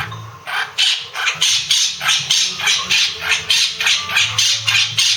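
Blue Quaker parrot (monk parakeet) giving a rapid, regular series of short, sharp squawks, about three a second.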